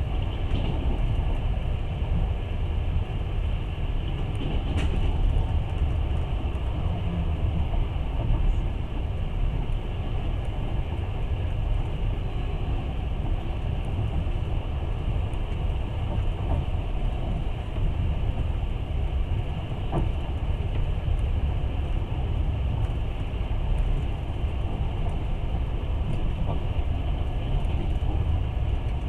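Passenger train running steadily, a continuous rumble of wheels on rails heard from inside the carriage, with a few faint ticks.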